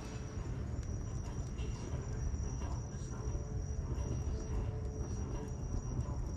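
Wood bonfire burning, with occasional small crackles over a low steady rumble, and a steady high-pitched trill throughout.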